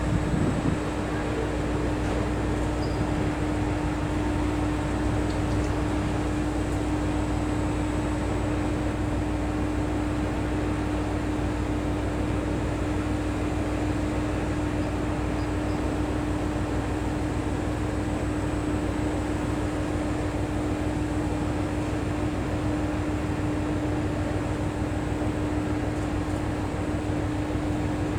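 Steady hum and low rumble of a diesel railcar idling at the platform: one constant drone that does not change.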